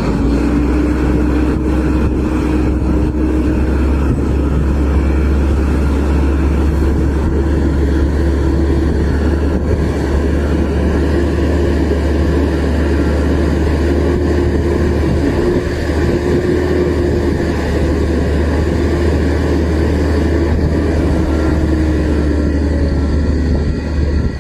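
Heavy truck engine running steadily under load, a loud, low, even drone that holds its pitch with only slight drift.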